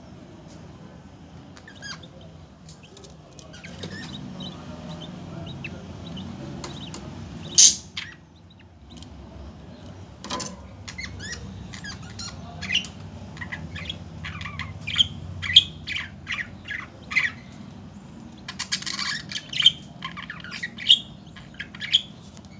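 Budgerigars chirping and squawking: short sharp calls, sparse at first with one loud squawk about eight seconds in, then coming thick and fast in the second half, over a low steady hum.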